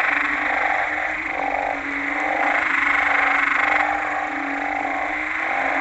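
Chorus of banded bullfrogs calling after rain: loud, overlapping, repeated low calls about half a second long, over a steady dense din from the rest of the chorus.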